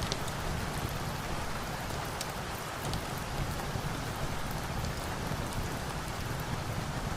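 Steady rain falling, an even hiss with a low rumble underneath and a few small sharp ticks scattered through it.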